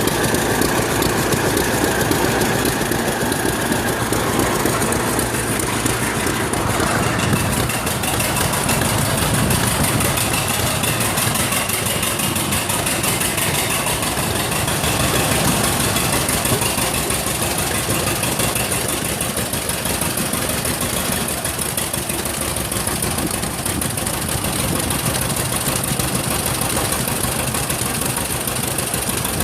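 Old farm tractor engine idling steadily with an even beat.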